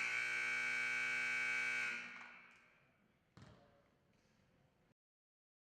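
Gym scoreboard buzzer sounding one steady, loud horn blast for about two seconds, then dying away in the hall's echo. A single thump follows shortly after.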